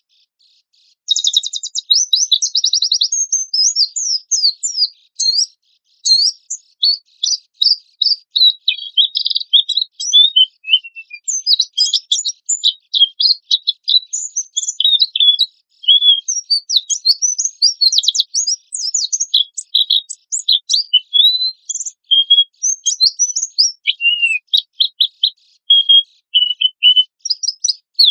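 White-eye (pleci) singing: a busy, high-pitched twitter of quick gliding notes and fast trills, opening about a second in with a rapid buzzy trill. The recording is clean, with no background noise.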